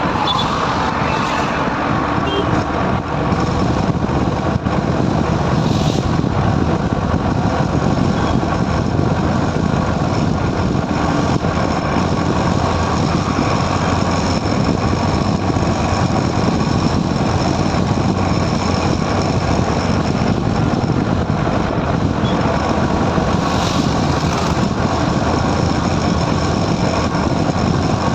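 Motorcycle riding at highway speed: steady engine and rushing wind noise with no letup.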